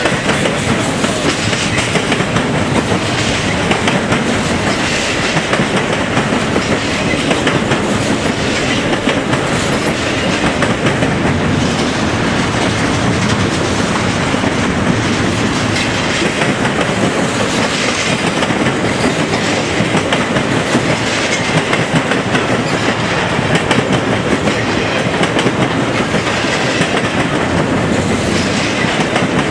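A long freight train's cars rolling steadily past, the wheels clacking over rail joints.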